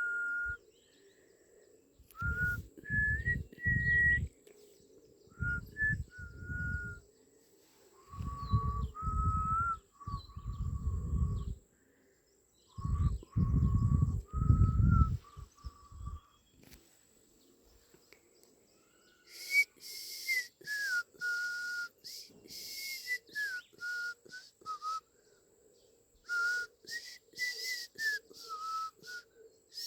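A person whistling a slow tune in short phrases of steady held notes that step up and down, with pauses between phrases. In the second half each phrase comes with a quick run of sharp, high clicks.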